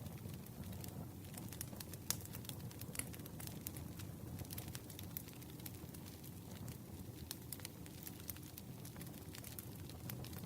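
Campfire crackling: frequent irregular pops and snaps over a steady low rumble of burning wood, with a sharper pop about two seconds in.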